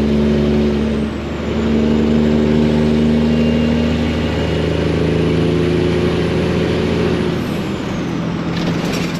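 Detroit diesel engine of a Freightliner semi truck running under load through loud exhaust pipes, with a brief dip about a second in and easing off near the end. A faint high whistle falls in pitch as it eases off, and a short hiss comes near the end.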